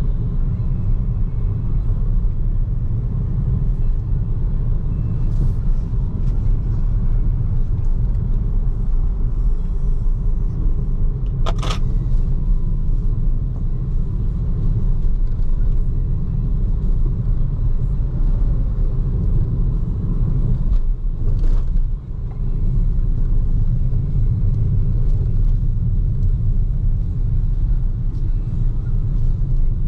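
BYD Seagull electric car driving on a city road: a steady low rumble of tyre and road noise, with no engine note. A sharp click comes near the middle, and a fainter one later.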